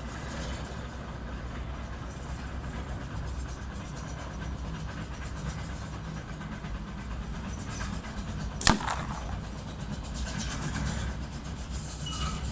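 A single shot from a Stoeger .22 air rifle about two-thirds of the way in: one sharp crack with a brief ringing tail. It comes over a steady low background rumble.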